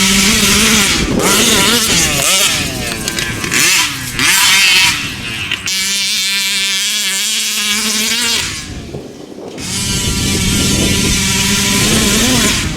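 Taylor 46 GT two-stroke gas engine in a large-scale Kraken RC truck, revving up and backing off repeatedly under the throttle while the truck is driven, with a short dip in engine speed about nine seconds in before it picks back up.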